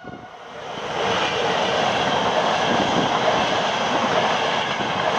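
Frecciarossa high-speed train passing, its noise swelling about a second in and then holding steady.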